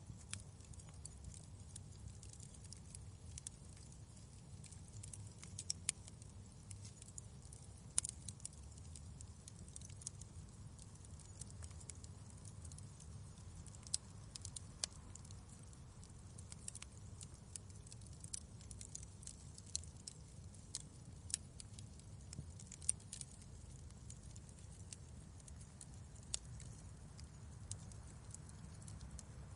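Wood fire crackling in a fireplace: irregular sharp snaps and pops, a few louder ones, over a faint steady low rumble.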